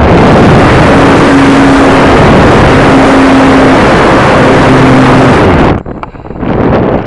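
Loud rush of air over the microphone with a steady motor hum underneath, typical of an RC combat airplane in flight. It cuts off abruptly about six seconds in.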